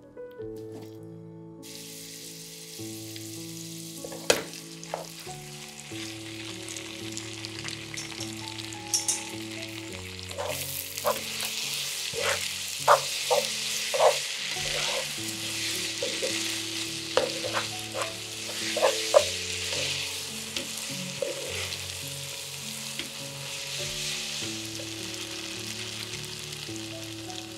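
Knife-cut noodles sizzling in hot chili-garlic oil in a nonstick pan as they are stirred and tossed with a spoon, with scattered sharp knocks of the spoon against the pan. The sizzling starts about two seconds in and stays steady. Soft background music plays underneath.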